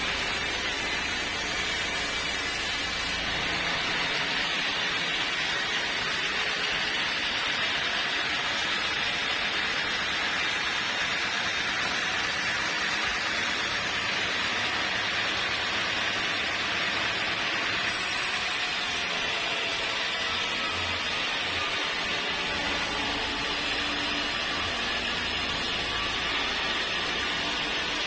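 A sawmill saw running through a log: a steady, even noise with no breaks.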